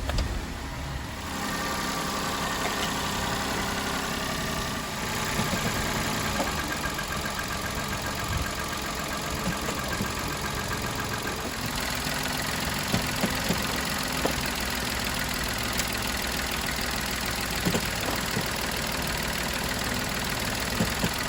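Daihatsu Move L185's small three-cylinder engine idling steadily, with a fine high squeal over it. The car has a belt-squeal-like キュルキュル noise from the front.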